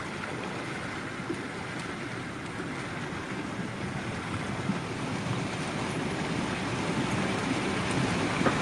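A vehicle ploughing through deep floodwater: a steady rush and wash of water against the car, growing louder toward the end.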